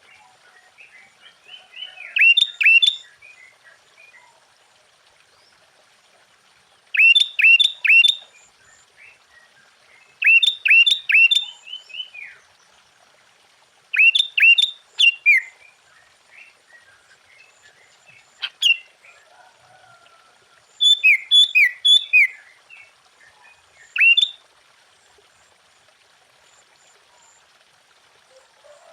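Sooty-headed bulbul singing: short, loud phrases of three or four quick whistled notes, repeated every few seconds, with faint softer chatter in between.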